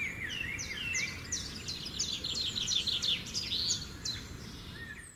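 Songbirds chirping, a busy run of short, quick sliding notes, over a steady low background rumble.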